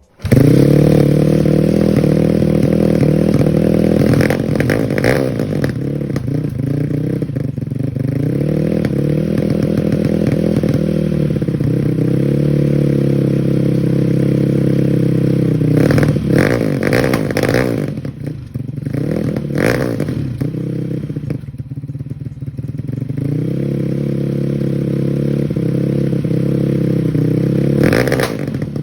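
Honda Grom's single-cylinder four-stroke engine running loud through a racing exhaust, revving up and settling back a few seconds in, with a few sharp pops about two-thirds through.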